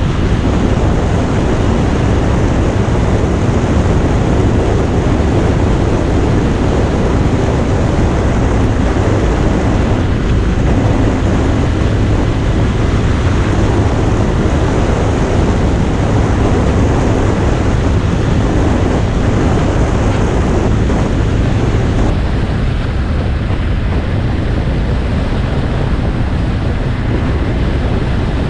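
Motorcycle underway at speed: steady engine and road noise under heavy wind buffeting on the microphone.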